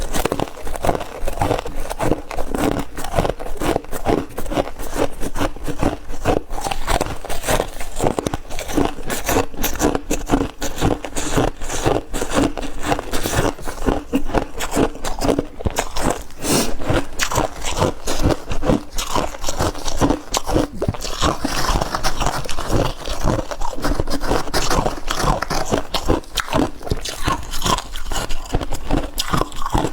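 A person biting and chewing chunks of refrozen freezer frost: a continuous run of squeaky crunches and gritty scraping as the icy frost is crushed between the teeth.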